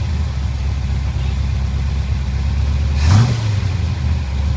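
Ford 390 V8, bored .040 over to 398 cubic inches with a Comp 268H cam and a Holley 770 carburetor, idling in a 1970 Ford F100, with one short throttle blip about three seconds in.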